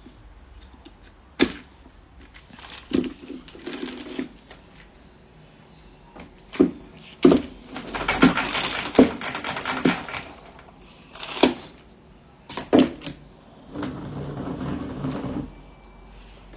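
A series of sharp knocks and clicks with bouts of rattling, as hard objects are handled and knocked together, busiest and loudest about seven to ten seconds in.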